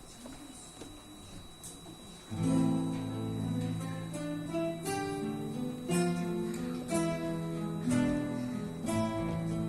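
An ensemble of acoustic guitars begins playing about two seconds in: plucked notes and chords with an accent roughly once a second. Before that there is only quiet room noise with a couple of faint clicks.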